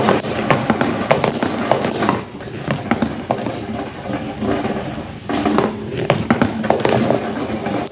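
Marbles rolling down a homemade marble run: a continuous rolling rumble dotted with many sharp clicks as they knock along the track. The rolling eases a little about two seconds in and picks up again a little after five seconds.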